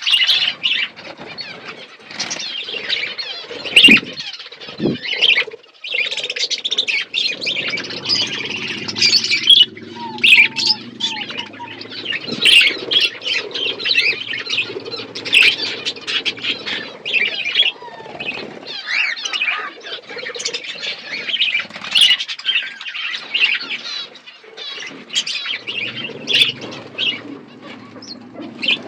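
A flock of pet budgerigars chattering and warbling in a continuous stream of quick chirps, with brief wing flapping and a couple of low thumps about four and five seconds in.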